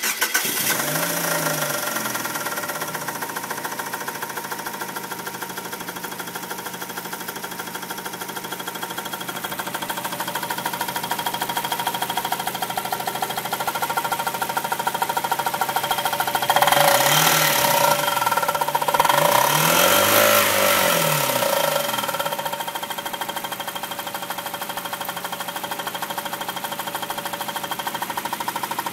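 1999 Kia Sephia's four-cylinder engine running just after starting, with a steady rapid knocking, a noise that began after the same starter motor was removed and refitted. About halfway through, the revs rise and fall twice and the engine gets louder, then it settles back to idle.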